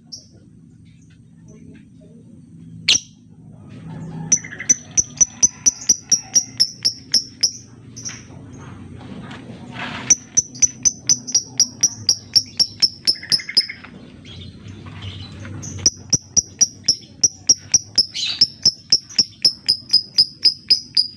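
Lovebird calling in fast runs of short, high chirps, about four a second, in three long bursts with short pauses between them. This rapid ticking call ('ngetik') is used as a lure to set other lovebirds singing.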